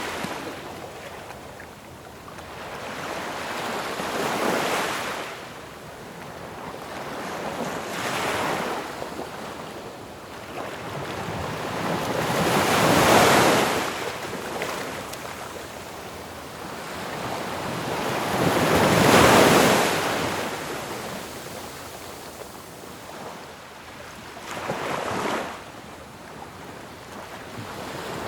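Ocean waves breaking on a shore, each one rising to a crash and washing back, about every four to six seconds; the two biggest break about halfway through.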